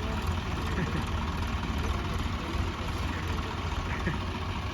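Tractor diesel engine running steadily at a low idle.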